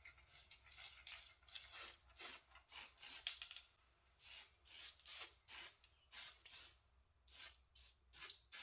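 Aerosol can of chain lubricant sprayed onto a miniature locomotive's drive chain in many short hissing bursts, about two to three a second, with a brief pause about halfway through.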